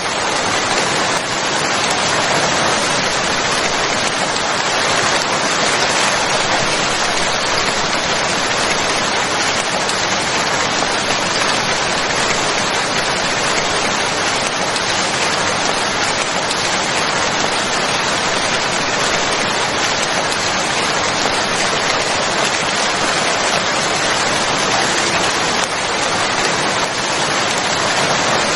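Steady, dense rainfall pattering on a surface, an even hiss with no breaks or changes.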